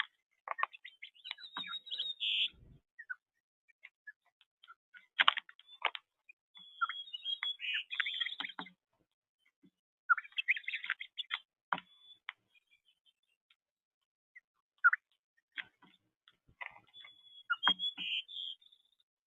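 Small birds chirping in short, busy bouts of high twittering calls, with scattered sharp taps among them and quiet gaps between bouts.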